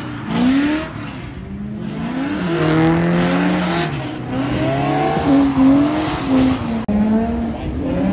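A car's engine revving up and down in repeated swings as the car drifts sideways on a wet track, over a hiss of tyre noise.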